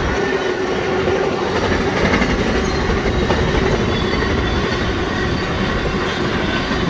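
BNSF intermodal freight train rolling past, its wheels running steadily on the rails with a clickety-clack over the rail joints.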